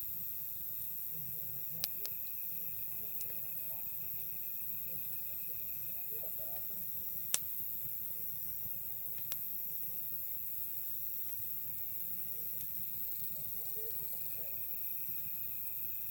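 Campfire crackling, with a few sharp pops standing out over a steady low rush, the loudest about seven seconds in. An insect trills at times in the background.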